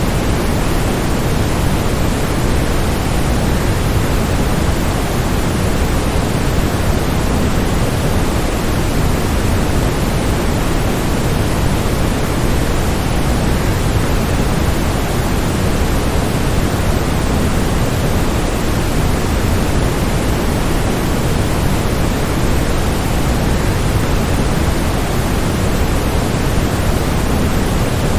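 Steady, unchanging rushing noise, heavier in the low end than the high, sold as waterfall white noise.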